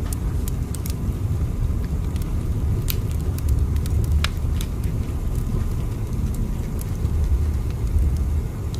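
A train running, a steady low rumble with irregular faint clicks and ticks scattered over it.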